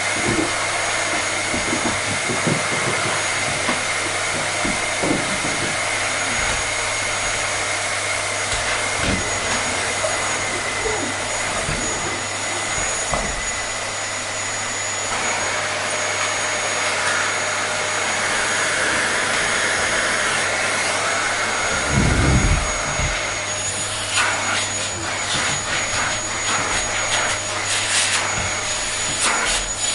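Vacuum cleaner running steadily, its rushing air carrying a high whine and a low hum. About 22 seconds in there is a short, loud low thump, and after it the sound turns rougher, with scattered clicks and rattles.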